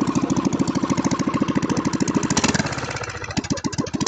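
1967 Jacobsen Chief garden tractor's engine running loud with rapid, even firing pulses. About two and a half seconds in it slows and stumbles into a few uneven beats, close to stalling, then picks back up right at the end.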